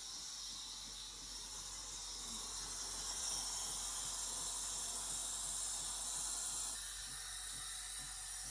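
A steady hiss that grows louder a couple of seconds in and drops off suddenly about seven seconds in.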